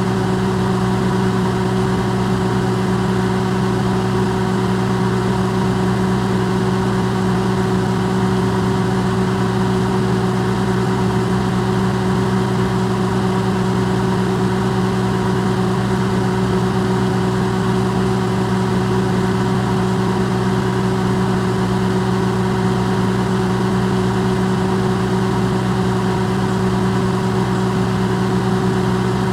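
Electrolux microwave oven running, recorded close and amplified: a steady, unbroken hum with a low drone and a few fixed tones over an even whirring noise.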